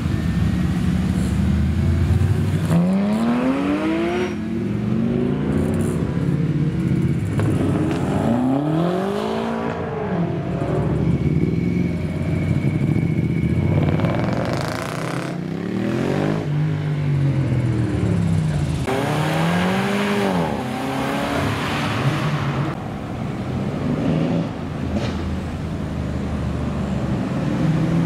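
Performance cars accelerating hard one after another, with engine revs sweeping up and dropping back at each gear change several times over a steady engine and road rumble.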